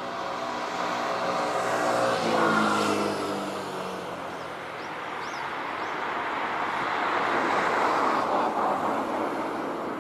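A motor vehicle passes close by, its engine hum loudest and dropping in pitch about two and a half seconds in. A second swell of passing tyre-and-road noise peaks near the end.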